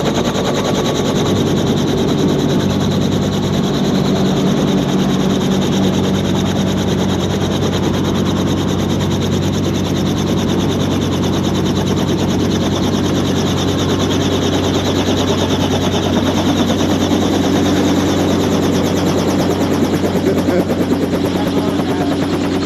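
Helicopter engine and rotor running steadily, with a fast, even chop from the blades.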